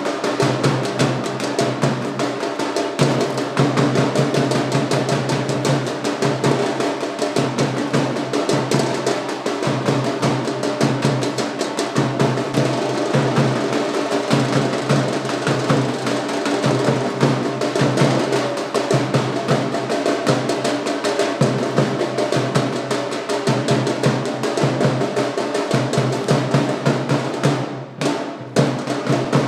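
Fast, continuous drumming over steady sustained musical tones, with a brief break near the end.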